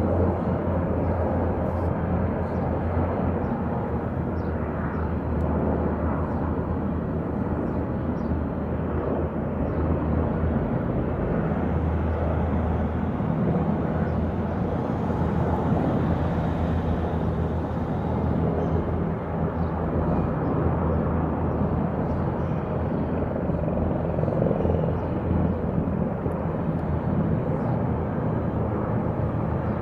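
Distant military helicopters flying over the city: a steady low drone that swells slightly around the middle.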